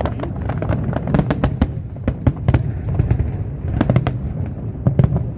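Fireworks display: a rapid, irregular string of sharp bangs and crackles over a continuous low rumble of booming shells, with a dense cluster of the loudest cracks about a second in and again near the end.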